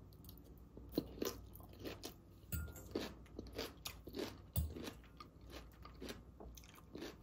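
A mouthful of raw salad (lettuce, red cabbage, onion, carrot) chewed close to the microphone, with many short, irregular crunches.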